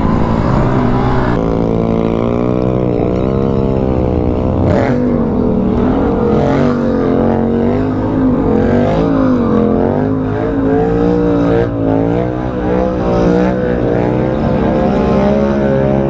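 A vehicle engine driven hard, its revs rising and falling again and again as the throttle is worked.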